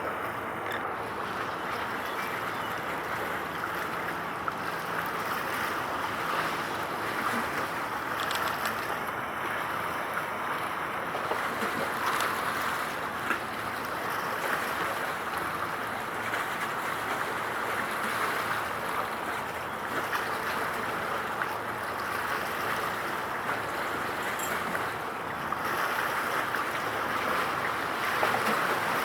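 Steady rushing noise of wind and water at the shore, with no distinct events.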